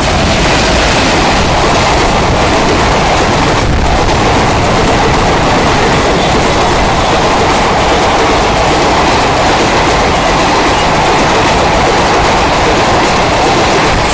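Express passenger train running past on the track: a loud, steady rush of coaches and wheels on the rails, without a break.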